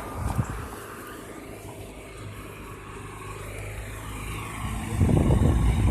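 A motor vehicle going by on the street: a steady low engine hum that grows louder and rougher near the end as it comes closer.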